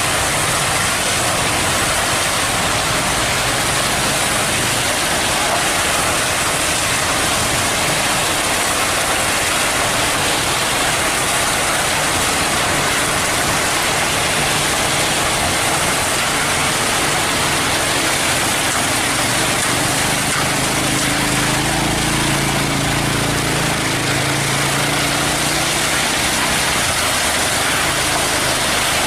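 Heavy diesel engine running steadily under a continuous rushing noise, its low hum growing stronger about two-thirds of the way through.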